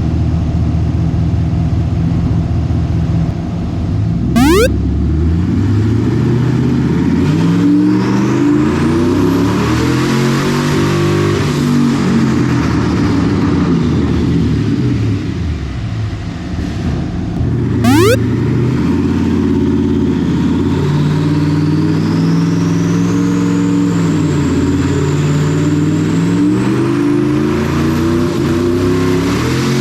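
Twin-turbo Ford 4.6 two-valve V8 revving up and down in repeated pulls under boost. A brief sharp burst comes about four seconds in and another about eighteen seconds in. A high turbo whistle rises in pitch during the second pull.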